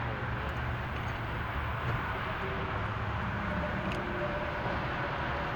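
Steady low rumble of distant vehicle traffic, unbroken throughout.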